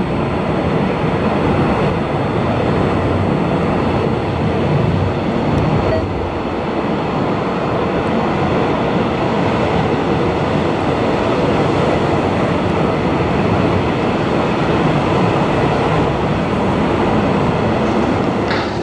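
Jet airliner engines running, a loud, steady rumble with no clear pitch.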